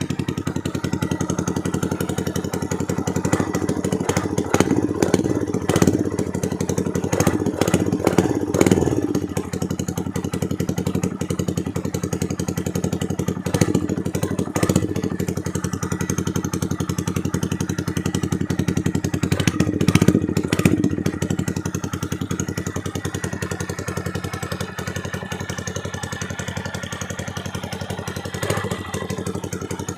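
Honda MSX 125's single-cylinder four-stroke engine, bored out with a 60 mm piston on the stock stroke, running at idle through a loud exhaust. The throttle is blipped several times: a few seconds in, again near the middle, and about two-thirds through.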